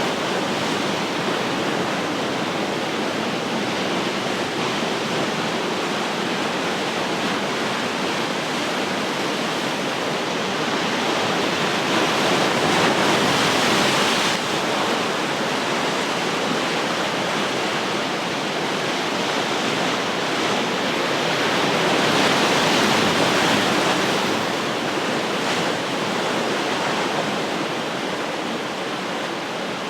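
Ocean surf: a steady wash of breaking waves that swells twice, about 12 and 22 seconds in, and then subsides.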